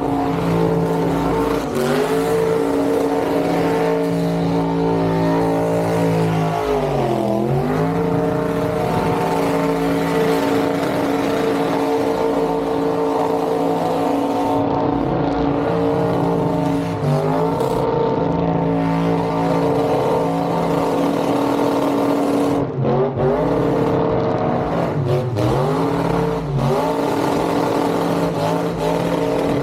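A car engine held at high, steady revs for long stretches. The revs drop sharply and climb back several times, as in a burnout.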